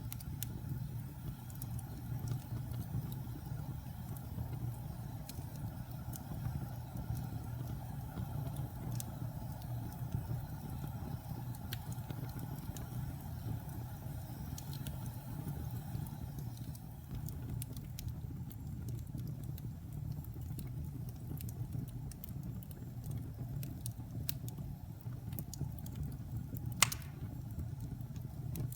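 Wood fire burning in a fireplace: a steady low rumble with scattered small crackles, and one sharp pop near the end.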